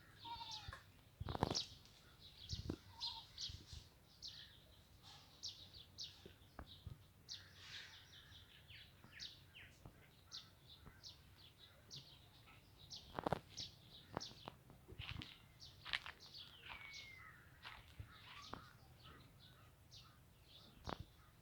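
Many small birds chirping in quick, short tweets, with a few scattered knocks and thumps.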